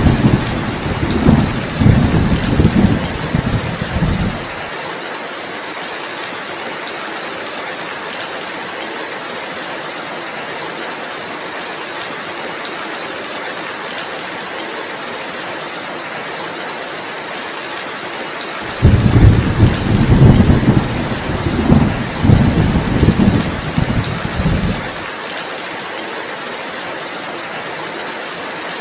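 Steady heavy rain with two rolls of low thunder: one dying away about five seconds in, and another starting about two-thirds of the way through and lasting some six seconds.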